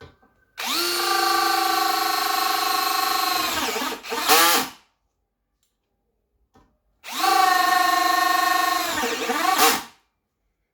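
Bosch BL5120 brushless cordless drill, clutch set to 10, running at high speed in two bursts of about three seconds each, with a steady high whine. Near the end of each burst the pitch sags and wavers before it stops.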